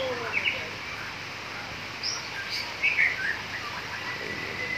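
White-rumped shamas singing at a songbird contest: scattered short whistled phrases and chirps from several birds, with a long steady whistle beginning near the end.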